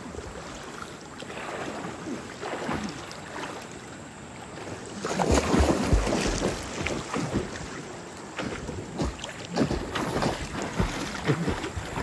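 Steady rushing water with wind buffeting the microphone, louder for a second or so about five seconds in.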